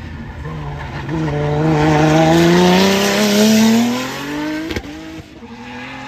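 A car's engine accelerating hard as it passes, its note climbing steadily in pitch for about three seconds and loudest in the middle, with a hiss of tyre noise over it. A single sharp crack comes near the end, after which the engine note is lower and fainter.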